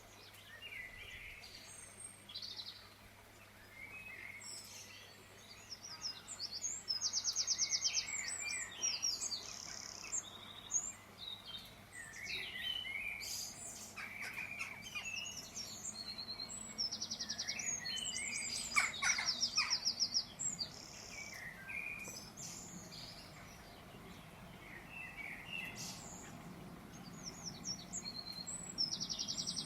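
Several songbirds chirping and singing: rapid buzzy trills and short chirps that come and go all through, with the busiest stretches in the middle and near the end, over a faint steady hum.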